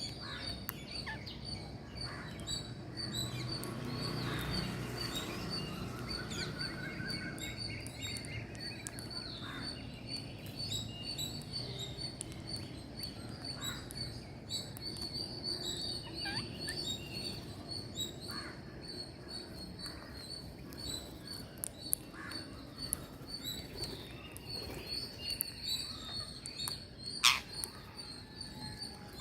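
Birds chirping and calling, with a dense run of short, high chirps throughout and a brief trilling call a few seconds in. A single sharp, loud sound stands out near the end.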